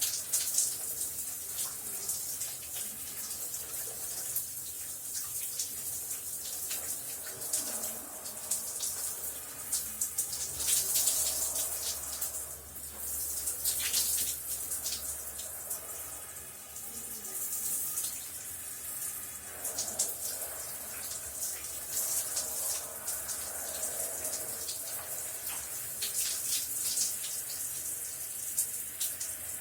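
Shower running steadily, water spraying and splattering with a hissing high-pitched spray and shifting splashes.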